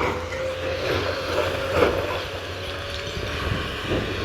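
Heavy demolition machinery running steadily with a low engine hum and a held whine, and a sharp knock a little under two seconds in.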